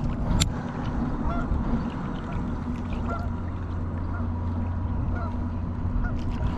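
A squeaky fishing reel gives short, honk-like squeaks every half second or so as a hooked bass is reeled in. Heavy wind buffets the microphone underneath.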